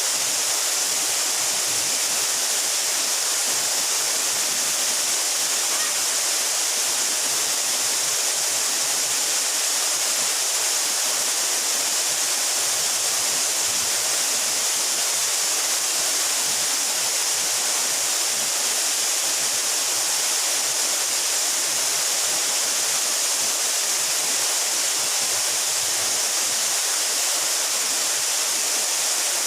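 A 12-metre mountain waterfall pouring steadily, as an even hiss of falling water with little low rumble.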